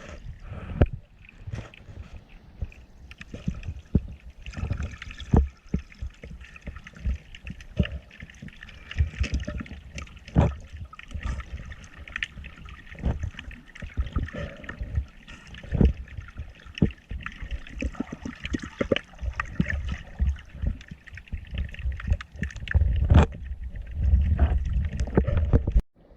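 Sea water sloshing and gurgling around the microphone, with many sharp irregular clicks and knocks, heavier sloshing near the end.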